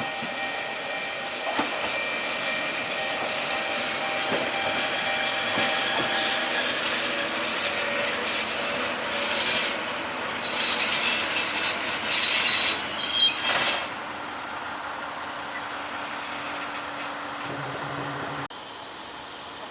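Watarase Keikoku Railway train running on the rails, its wheels giving a high-pitched squeal. The squeal and rumble die down about 14 seconds in.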